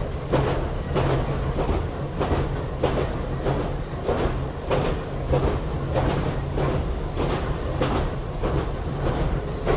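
Kambara Railway electric railcar Moha 31 running, heard from inside the car: a steady low hum under the wheels clicking over rail joints about every 0.6 s.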